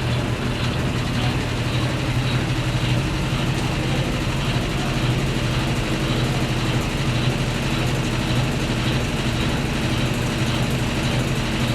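Brastemp Ative! 11 kg washing machine running with a steady low hum, its motor going without pause.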